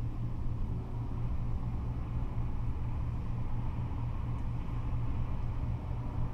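Steady low rumble of freeway traffic, with cars and trucks passing continuously and no single vehicle standing out.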